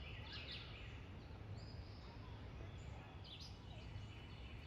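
Songbirds chirping and calling in woodland: short falling notes and a few held whistles come and go, over a steady low rumble.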